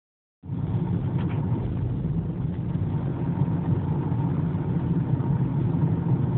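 Heavy haulage truck's diesel engine running with a steady, deep drone.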